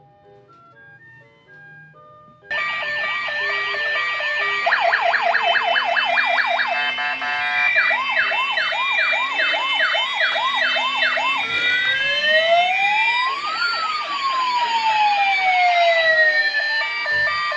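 Electronic sirens of two toy police cars sounding together, starting suddenly about two and a half seconds in after a faint electronic tune: fast warbling yelps overlap, with a slower rise-and-fall wail near the end.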